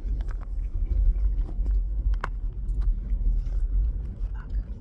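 Steady low rumble of a car heard from inside the cabin, with scattered small clicks and taps; one sharper click comes a little after two seconds in.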